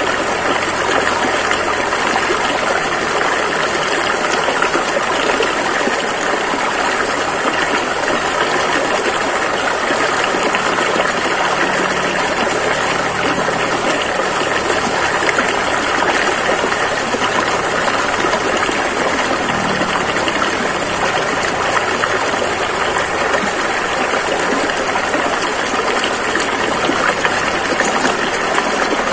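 River water rushing over rapids in a steady, even noise.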